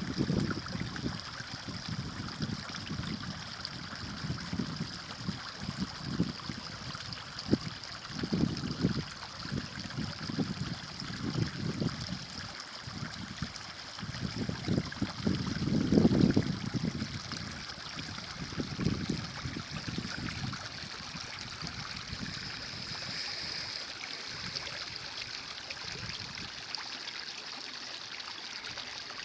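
Stream running and trickling, with uneven low gurgling surges through most of the stretch; the strongest comes about sixteen seconds in, and the flow settles to a steadier rush near the end.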